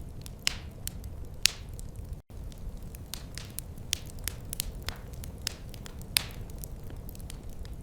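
Wood fire crackling in a fireplace: irregular sharp pops and snaps over a low steady rumble of the flames. The sound drops out for an instant a little over two seconds in.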